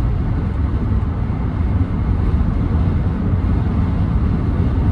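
Steady low rumble of road, tyre and engine noise inside the cab of a 2014 Ram 1500 with the 5.7 Hemi V8, cruising on the interstate at 65 mph on cruise control.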